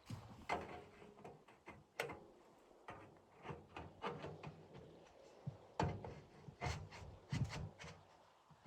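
A series of irregular knocks, clicks and scrapes, with the sharpest knocks about two seconds in and around six and seven and a half seconds in.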